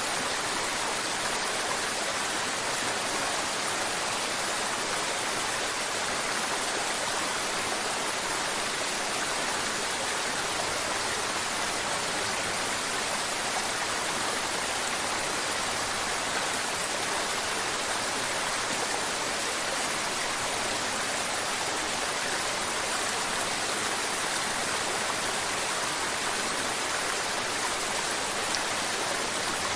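Mountain river water babbling and flowing in a steady, even rush, mostly high with little bass.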